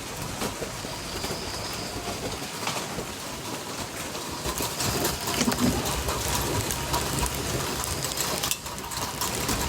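Heavy rain pouring steadily, with many drops striking close by, and a bird calling through it.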